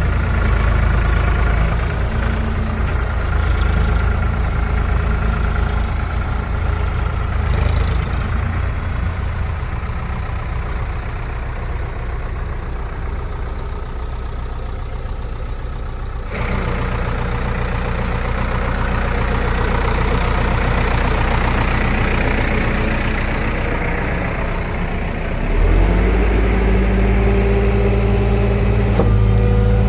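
Heavy diesel engine running steadily. The sound changes abruptly about 16 seconds in, and the engine revs up about 25 seconds in, then holds at the higher speed.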